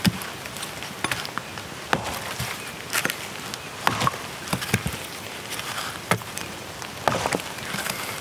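Steady rain hiss, broken by sharp knocks and clicks at irregular intervals, about one a second.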